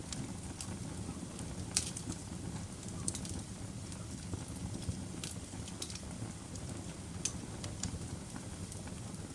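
Wood fire in a fireplace burning with a steady low rumble, and crackling with sharp pops about once a second.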